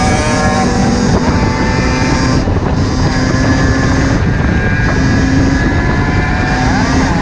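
Small two-stroke dirt bike engine running under load, its pitch rising and falling as it revs and changes gear, with wind rushing over the microphone.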